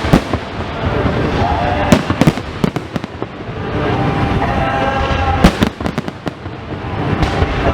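Fireworks bursting at irregular intervals over a continuous rumble. There is a bang at the start, a quick cluster of bangs around two to three seconds in, and two more about five and a half seconds in.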